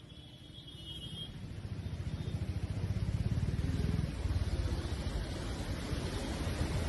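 Low rumble of a motor vehicle, growing louder over the first three seconds or so and then holding steady.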